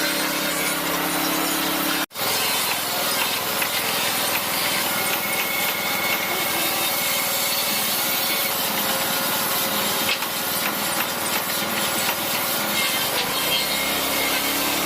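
Timber being worked by a woodworking tool: a continuous rasping, sawing-like noise, broken by a sudden brief dropout about two seconds in, with a steady motor hum before the dropout and again near the end.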